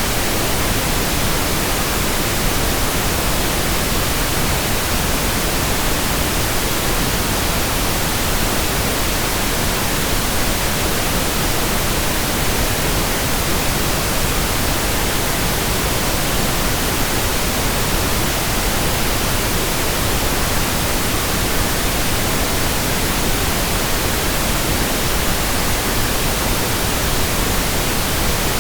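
Steady synthetic pink noise, an even hiss across all pitches that does not change.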